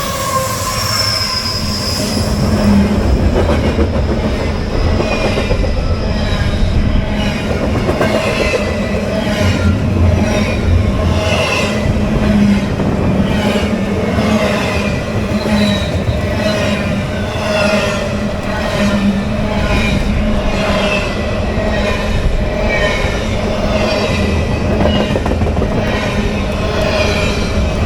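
CSX freight train rolling past at close range: its wheels clack over the rail joints about once a second, with squealing from the wheels and a steady low rumble.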